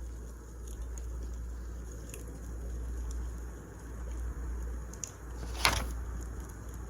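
Wood fire burning, with a steady low rumble and scattered faint crackles, and one loud sharp pop of the burning wood about two-thirds of the way through.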